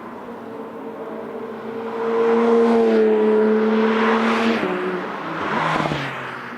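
Porsche 992 GT3 RS's naturally aspirated flat-six running at high revs through an aftermarket Brillsteel Edizioni Corsa exhaust. It gets louder at a steady pitch, then drops in pitch suddenly about four and a half seconds in, with a shorter swell near the end.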